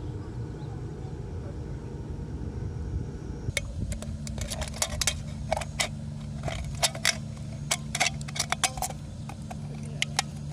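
Metal utensils clinking and tapping against metal cookware: an irregular run of sharp clinks, some briefly ringing, starting about three and a half seconds in.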